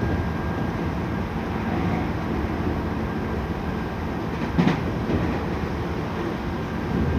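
Inside a Tokyu 5000 series electric train running at speed: a steady rumble of wheels on rail with a faint steady tone. There is a single short clack about four and a half seconds in.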